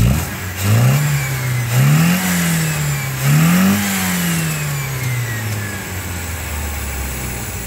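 MGB's 1.8-litre B-series four-cylinder engine on twin SU carburettors being revved three times in quick succession, then the revs falling back to a steady idle. The crisp throttle pickup shows the freshly set ignition timing and the nearly dialled-in carburettors.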